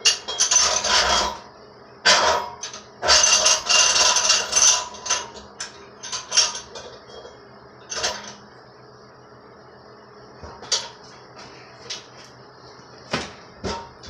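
Tools and metal parts being handled: clattering and clanking in bursts over the first five seconds, some with a faint metallic ring, then scattered single knocks and clicks.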